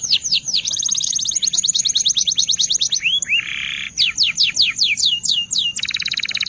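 Belgian canary singing: runs of fast downward-sweeping whistled notes, several a second, alternating with very rapid rolling trills, and a short buzzy phrase about halfway through.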